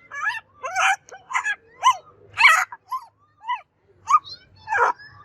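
Macaw making a quick run of about ten short calls, each bending up and down in pitch, with brief gaps between them.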